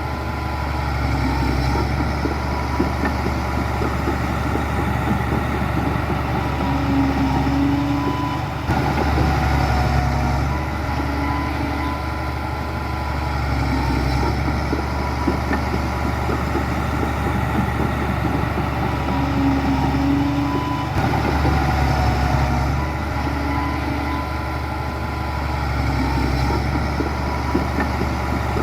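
Heavy diesel construction machinery (bulldozer and dump trucks) running steadily, with the engine note swelling twice and brief faint squeaks.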